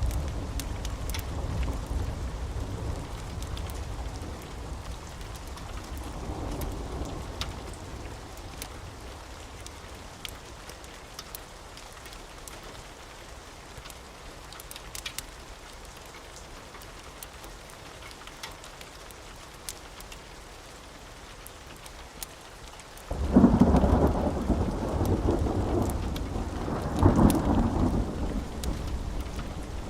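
Steady rain with scattered light clicks. A low thunder rumble dies away over the first several seconds. About three-quarters of the way in, a sudden loud clap of thunder breaks and rolls on, with a second loud peak a few seconds later.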